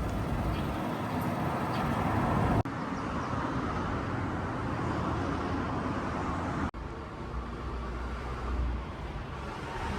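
Steady traffic or road noise from passing cars, broken by two abrupt cuts about two and a half and about six and a half seconds in.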